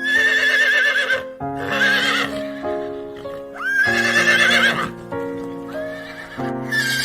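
Horse whinnying four times in a row, each neigh a high call with a quavering pitch, over light keyboard background music.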